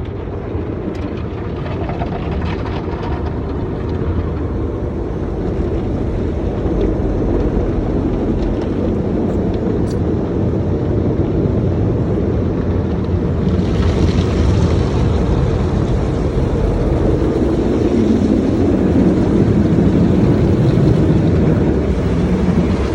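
Steady, loud rumble of car wash machinery running, with a hiss joining in about halfway through.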